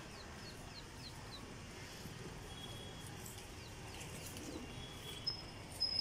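Small birds chirping: a quick run of short, falling high chirps in the first second and a half, a few more in the middle, and a thin held high note near the end, over faint steady background noise.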